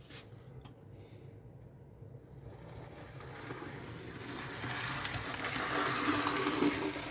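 Model locomotive, a Fleischmann NS 1200-series electric, running along a model railway track: its motor hum and the rattle of its wheels on the rails grow steadily louder as it approaches.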